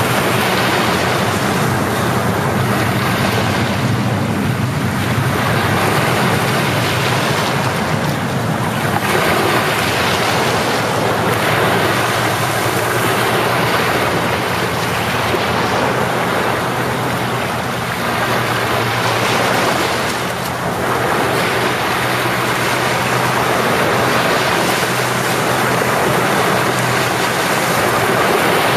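Sea waves breaking and washing up the shore: a continuous rush of surf that swells and eases every few seconds.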